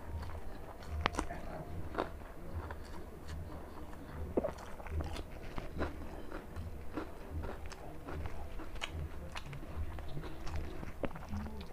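A man eating chicken and white rice by hand: close-up chewing with many irregular sharp mouth clicks.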